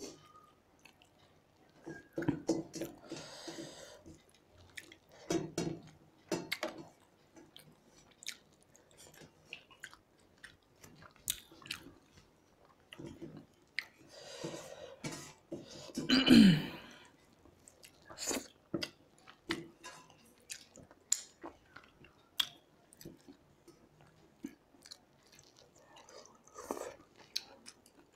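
Two people eating rice and fish curry by hand from steel plates: chewing and many short wet mouth clicks, with fingers working through the food on the plates. A brief voice-like sound with a falling pitch, a little past the middle, is the loudest moment.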